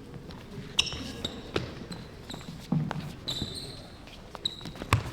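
Steel training messers clashing several times, each blade contact ringing briefly with a metallic tone, mixed with heavy footsteps thudding on a hall floor.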